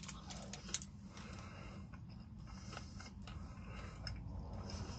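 Faint chewing of a bite of protein bar, with small crackles from the bar's foil wrapper and a few soft clicks, over a steady low hum.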